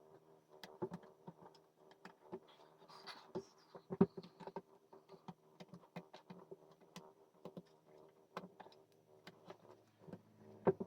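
Irregular light taps and clicks of puzzle pieces being handled, the sharpest about four seconds in and again near the end, over a faint steady hum.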